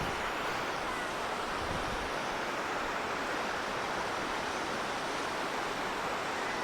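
Steady rush of falling water from a mountain waterfall, an even hiss with no break.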